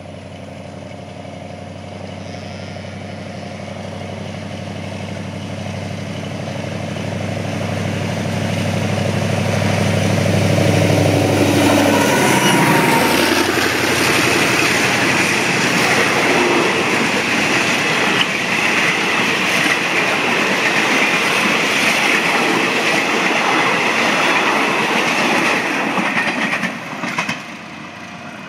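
An Alsthom AHK diesel-electric locomotive's Pielstick 16PA4V185VG V16 engine grows louder as it approaches, and its pitch drops as it passes about twelve seconds in. After that comes the steady rolling noise of the passenger coaches' wheels on the rails, which cuts off sharply near the end.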